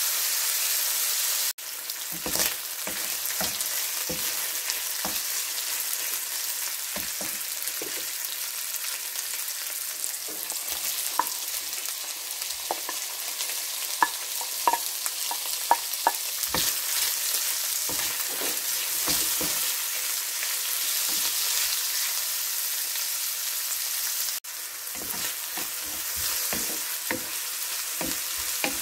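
Chicken strips and sliced onion sizzling in oil in a nonstick frying pan, with the utensil tapping and scraping against the pan as they are stirred. About halfway through there are a few sharp clinks, and the frying carries on once bok choy is added.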